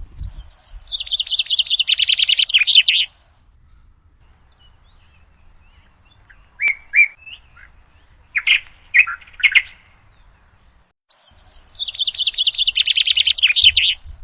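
A songbird singing a fast, rapid-note phrase about two and a half seconds long, twice, with a few short chirps in between.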